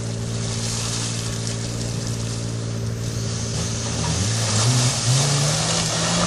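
Suzuki Samurai 4x4's engine running at a steady low speed, then revving up with a rising pitch from about four seconds in as it takes on the muddy climb under load.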